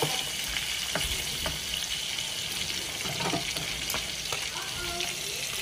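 Salmon fillets sizzling steadily as they sear skin-down in butter in a frying pan. There are a few light clicks of metal tongs against the pan and fish.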